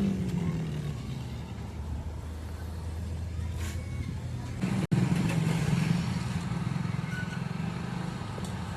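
A motor running steadily with a low drone. The sound drops out for an instant about five seconds in and comes back louder.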